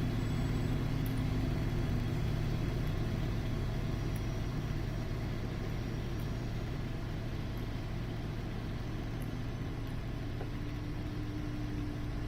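Glider touching down in the rain: a steady low rumble of airflow and motion, with a faint hum that comes in near the end.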